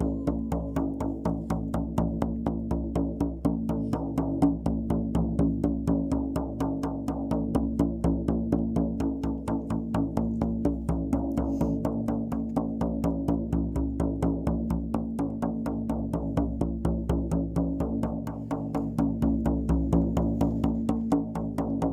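Shaman's frame drum beaten in a fast, even rhythm, several strikes a second, its skin ringing on in a steady low hum between beats.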